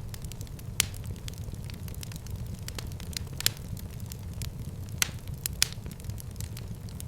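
Fireplace fire crackling steadily over a low rumble, with a few louder sharp pops scattered through.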